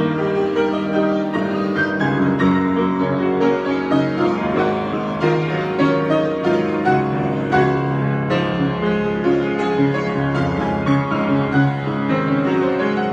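Piano playing an improvised piece of sustained chords and melody notes.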